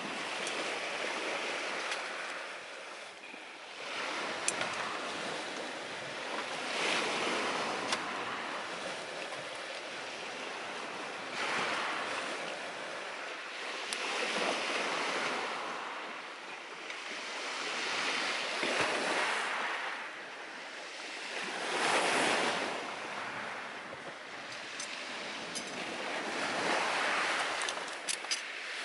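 Sea surf breaking on the shore in slow swells that rise and fall every four or five seconds, with occasional sharp pops from a wood fire burning in a small stove, several of them near the end.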